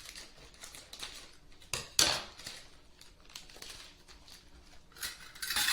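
Kitchen scissors snipping open a bag of brown sugar, with a sharp snip about two seconds in, faint crinkling of the packaging, and a louder rustle near the end.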